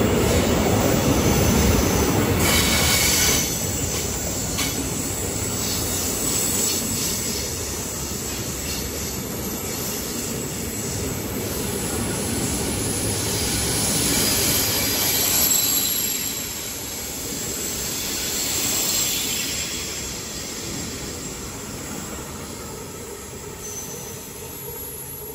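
Intermodal freight train's wagons rolling past on the rails, loud at first, swelling again midway, then fading near the end as the tail of the train draws away.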